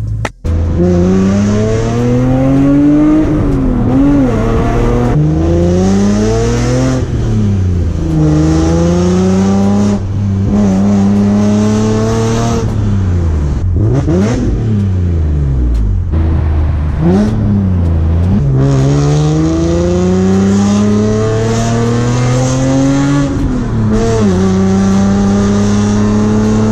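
BMW E46 M3's 3.2-litre S54 inline-six, with catless headers and a full exhaust, pulling hard under acceleration. Its pitch climbs and falls back again and again as it is driven through the gears of its six-speed manual and eased off between pulls.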